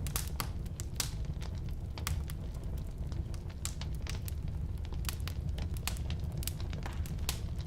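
Firewood burning in a fireplace: a steady low rumble of the flames with irregular sharp crackles and pops, several a second.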